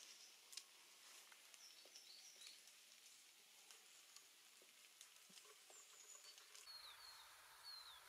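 Very faint woodland ambience: a soft hiss with scattered light ticks and a few faint, high, short falling chirps of small birds, a cluster about two seconds in and more near the end.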